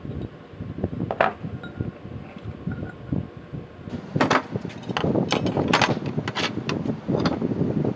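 Irregular sharp knocks and clanks over a low rumble: one strike about a second in, then a quicker cluster of strikes in the second half.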